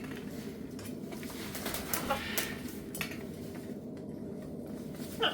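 Birds giving a few short calls, one about two seconds in and a louder one near the end, with light clicks and clatter between them.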